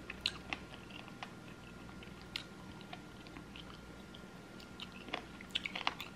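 Close-miked chewing of a chicken wing: scattered small wet mouth clicks and smacks, coming thicker about five seconds in.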